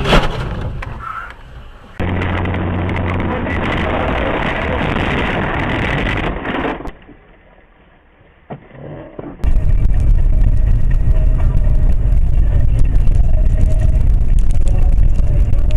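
Car engine and road noise in separate stretches that start and stop abruptly, with a short near-quiet gap in the middle; from about the middle on, a loud steady low rumble.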